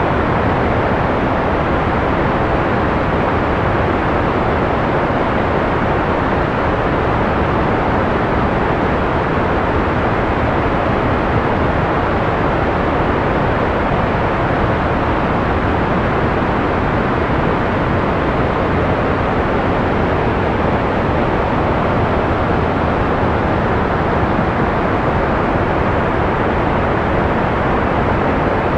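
Steady, unbroken noise with most of its weight in the low and middle range and little hiss on top, evenly loud throughout.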